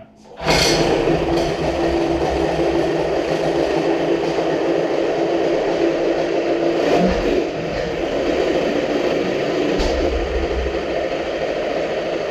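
Johnson 25 hp two-cylinder outboard starting about half a second in and running loud and rough, its note shifting about seven seconds in; the engine is running lean.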